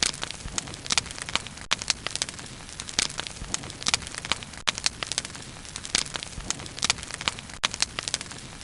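Wood bonfire burning: many irregular sharp crackles and pops over a steady low hiss of flame.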